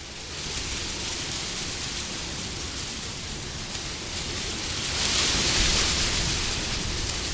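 Wind blowing as a steady rushing noise, with a gust that swells louder about five seconds in and eases off again.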